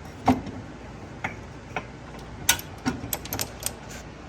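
Scattered sharp clicks and knocks of hand tools and metal parts being fitted to a car, with a loud knock near the start and a quick run of ticks about three seconds in.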